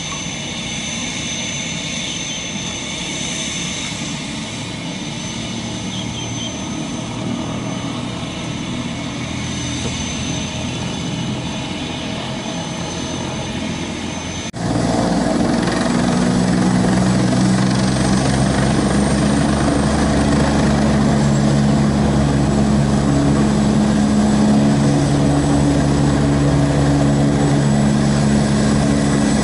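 Agusta Westland AW119 single-turboshaft helicopter running, with a steady high turbine whine over the rotor noise. About halfway through the sound cuts abruptly to a louder, deeper engine and rotor sound.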